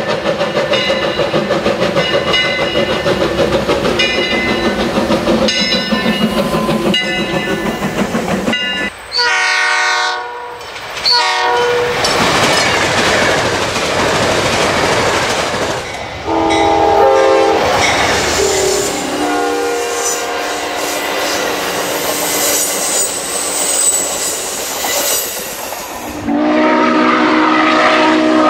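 Recorded real train sounds: a train horn blows several times, once sliding down in pitch as the train passes, between stretches of a passing train's rumble and wheels clicking over the rail joints. A horn chord sounds again near the end.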